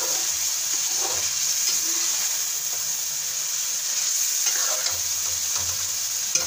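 Chicken in tomato and ginger-garlic masala sizzling steadily as it fries in a metal karahi, with a metal ladle stirring and knocking against the pan a few times. This is the bhunai stage, frying the masala until the tomato water dries off.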